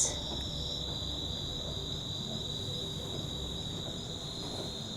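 Outdoor insect chorus, crickets or similar, trilling in one steady, high-pitched drone.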